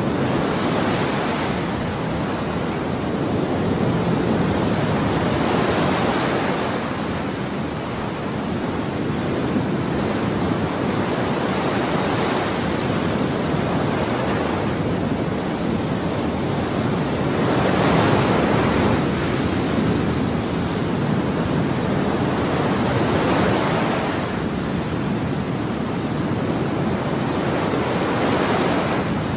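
Ocean waves washing on a shore, a continuous rushing surf with a wave breaking and swelling every few seconds; one of the loudest comes about two-thirds of the way through.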